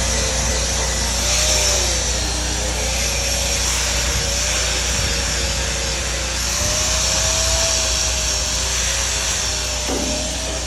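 Powered wire wheel scrubbing slag and scale off a freshly laid structural steel weld. The motor whine sags and recovers as the wheel is pressed into the steel, over a bright scratchy hiss.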